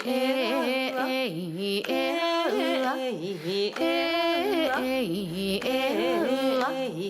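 Background music: a voice singing a slow melody with sliding, ornamented pitches, phrase after phrase.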